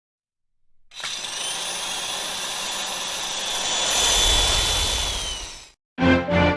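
A steady, motor-like whine over a rushing noise lasts about five seconds, swelling a little then dipping slightly in pitch and fading out near the end. Music with clear notes starts just after it.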